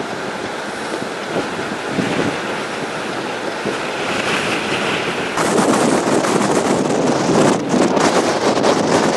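Wind rushing and buffeting the microphone, a steady noise that suddenly gets louder about five seconds in.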